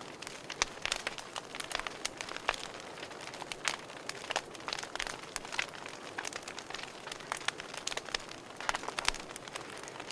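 Wood fire in a fireplace crackling, with irregular sharp pops and snaps over a soft steady hiss of burning.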